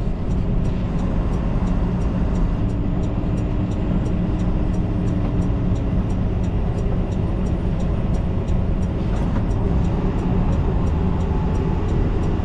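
Steady drone of an 18-wheeler's engine and road noise heard inside the cab at highway speed, with a faint, even ticking about three or four times a second.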